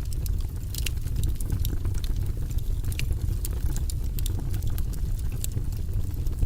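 Wood fire crackling in a fireplace: a steady low rumble of the flames, with frequent sharp crackles at irregular moments.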